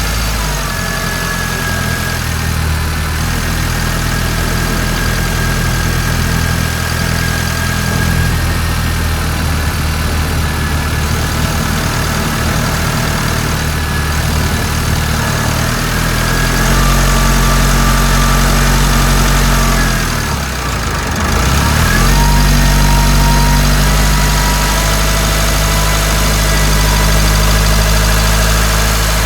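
Mitsubishi Delica D5's 2.2-litre four-cylinder turbodiesel idling steadily; about two-thirds of the way through its note dips briefly and shifts, then settles again at a slightly louder, different idle.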